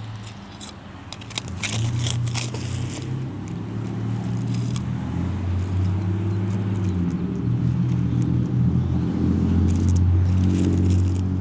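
A motor engine's low hum, growing louder over several seconds and loudest near the end, with scratchy scraping and clicking in the first few seconds.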